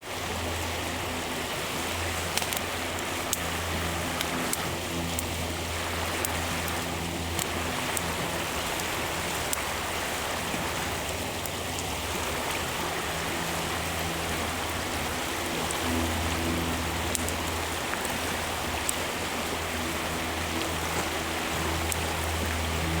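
Wood fire of lumber offcuts burning in a steel fire stand, with a steady hiss and scattered sharp crackles and pops. A steady low hum runs underneath.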